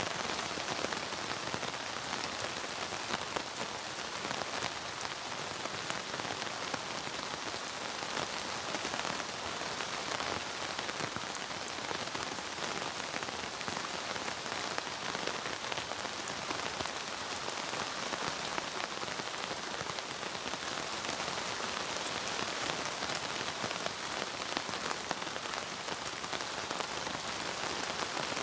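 Steady rain falling, a constant hiss dotted with many fine, separate drop ticks.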